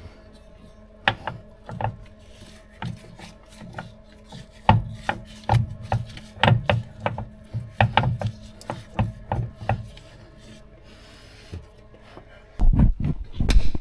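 Hand grease gun being worked at a U-joint zerk fitting: irregular clicks and scraping strokes, about two a second at their busiest, with a louder clatter of metal knocks near the end.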